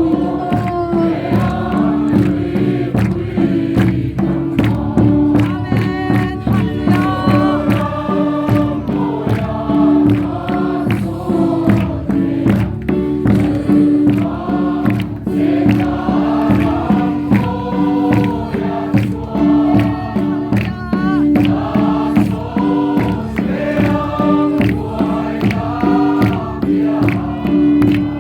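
A choir singing a gospel hymn over accompaniment with a steady percussive beat and a held low note.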